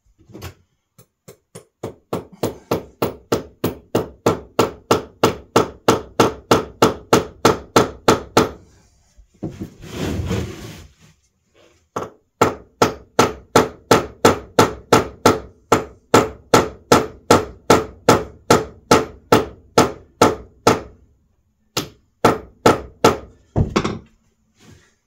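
Hammer blows struck in a steady run, about three a second, stopping for a moment partway through while about a second of noise sounds, then picking up again in another long run, with a few separate blows near the end.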